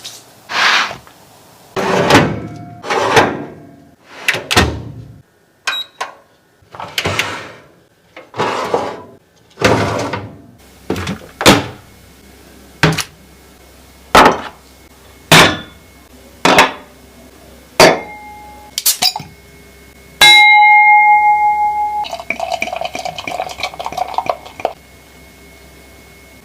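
Kitchen cooking sounds: about a dozen separate knocks and scrapes of food being handled, then a sudden loud steady electronic tone lasting under two seconds, followed by a buzzing tone pattern.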